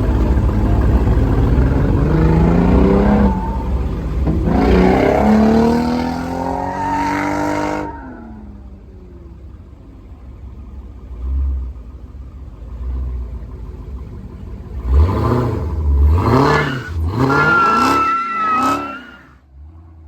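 A car engine accelerating hard, its pitch climbing in stages for several seconds before it dies away. After a lull, a quick series of sharp revs near the end.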